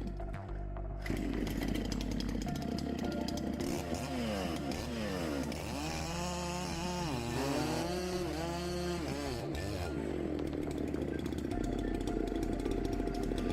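Dolmar PS9010 two-stroke chainsaw cutting through thick logs, its engine pitch repeatedly rising and falling as it revs and loads in the cut, with background music underneath.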